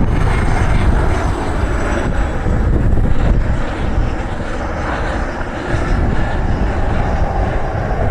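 Jet aircraft engines running, a steady rumble with a faint high whine early on, easing off a little about halfway through.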